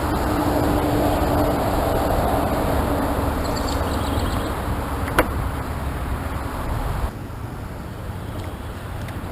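Steady low rumbling noise that drops in level about seven seconds in, with one sharp click about five seconds in.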